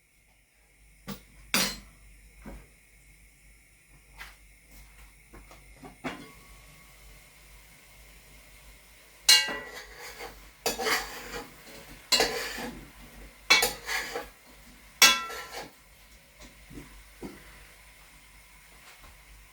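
Pots, pans and metal utensils clattering and scraping in the kitchen: a few light knocks at first, then five louder bouts of clatter, each about a second long, between about nine and sixteen seconds in.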